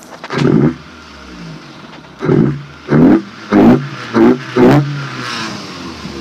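Truck engine revved in six quick blips, each rising and dropping back, then settling to a steady idle; the intake breathes through a raised air-intake snorkel.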